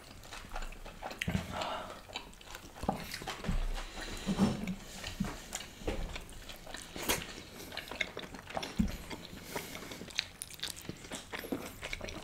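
Close-miked eating: chewing and biting food, with wet mouth sounds and irregular small clicks.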